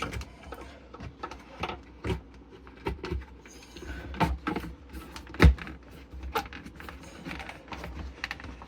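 Plastic air-intake parts being handled while the mass airflow sensor is fitted: scattered light clicks and taps, with one sharper knock about five and a half seconds in.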